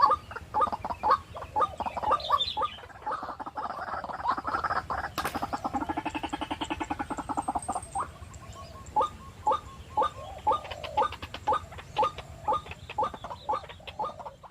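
White-breasted waterhens calling, a long series of repeated 'kwak' notes. A faster rattling stretch runs in the middle, and one sharp click comes about five seconds in. Near the end the calls settle to about two a second.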